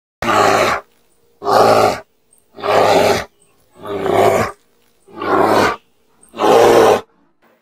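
A brown bear's rough call, given six times in a row: each burst lasts just under a second, with about half a second of silence between.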